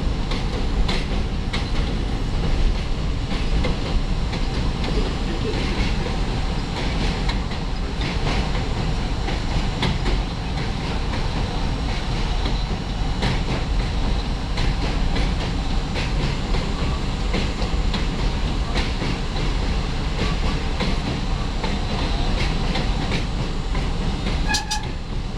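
An R32 subway car running at speed, heard from inside the car: a steady rumble with irregular wheel clicks and clatter over the rail joints. A brief high-pitched tone sounds near the end.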